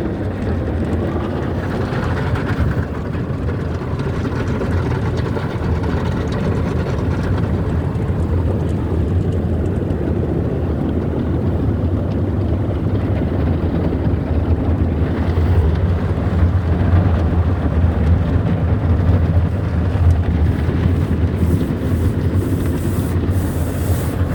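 Automatic car wash's rotating brushes and water working over the car during the brush cycle, heard from inside the car as a steady, deep rumble with a washing swish, growing a little louder in the second half.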